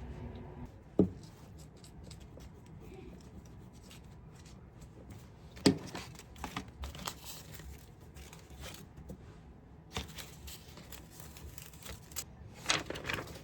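Tissue paper being torn and crinkled in short bursts, with a sharp knock about a second in.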